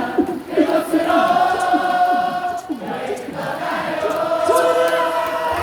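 A large crowd of baseball fans singing a cheer song in unison in long held notes, in two phrases with a short break between them.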